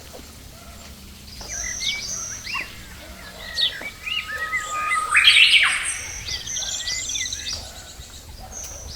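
Several wild birds chirping and calling at once, short high chirps and trills overlapping. About five seconds in there is a louder, rasping call that rises in pitch.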